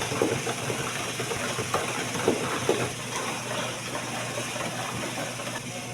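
Industrial kitchen at work: a steady machine hum and hiss from the kitchen equipment, with a few short knocks and clatters, most of them in the first three seconds.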